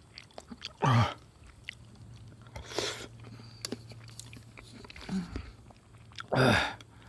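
A person eating: chewing and biting with small wet clicks, and two short, loud breathy sounds, one about a second in and one near the end, each dropping in pitch.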